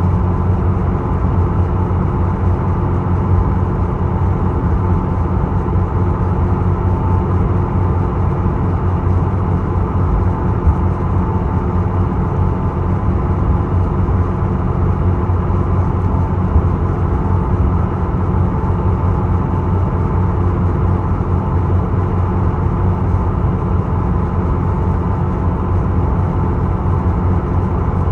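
Steady drone of the ferry Isokaze's engine heard on board: a low rumble with a faint steady whine on top.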